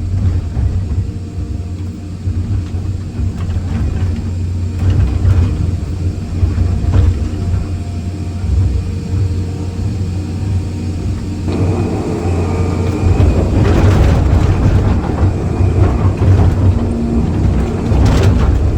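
Excavator's diesel engine running steadily, with scattered knocks of concrete being broken up. About eleven seconds in, the sound grows louder and rougher.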